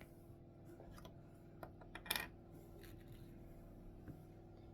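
A few faint clicks of small plastic Lego pieces being handled and fitted, the sharpest about two seconds in, over a low steady hum.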